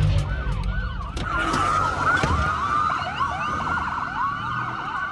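Several emergency-vehicle sirens sounding at once, overlapping wails and fast yelps, over a low vehicle rumble, with a few sharp clicks in the first couple of seconds.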